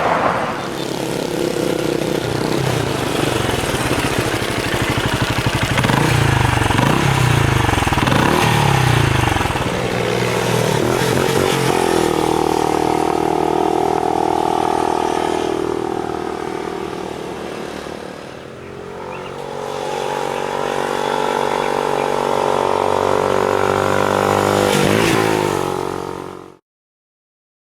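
Motorcycle engine running under way with wind rushing past, its pitch rising and falling as the bike speeds up and slows, then holding steady at cruising speed. The sound cuts off suddenly near the end.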